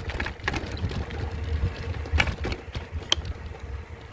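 Folding e-bike being ridden: a steady low rumble of tyres and wind on the microphone, with scattered sharp clicks and rattles.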